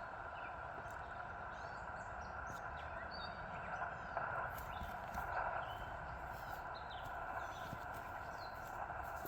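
Steady hiss of HF band noise from a Yaesu FT-891 transceiver's speaker while it waits for replies to a CQ call. Small birds chirp on and off over it.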